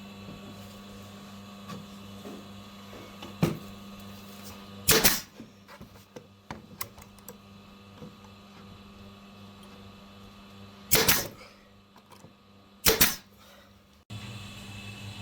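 Four short clattering handling sounds of hand work on a wooden piece, over a steady electrical hum.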